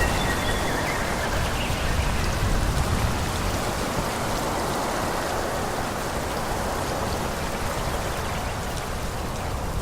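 Wind blowing through forest trees: a steady rush of moving leaves and branches with a low rumble beneath it.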